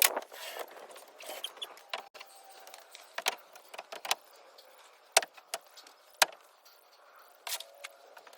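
Scattered clicks, clinks and knocks of small hard objects being handled, with the sharpest knocks about five and six seconds in.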